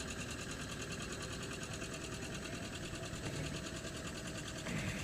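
John Deere 630's two-cylinder engine running with a rapid, steady putter.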